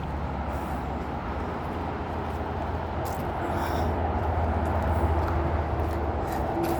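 Steady traffic noise from the M54 motorway through the trees, growing gradually louder, with a droning tone from a passing vehicle joining in about halfway. A few short scuffs sound over it.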